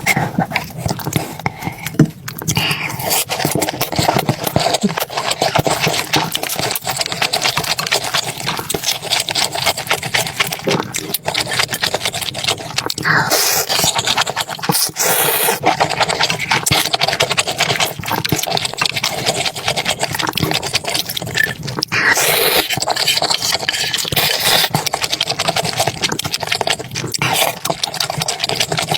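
Eating sounds: dense chewing and slurping, with a few louder noisy stretches about halfway through and again later.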